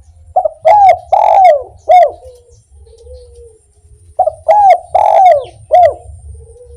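Spotted dove (derkuku) singing its 'kuk 1' song twice. Each phrase is a quick run of four loud coos followed by a softer, lower drawn-out note.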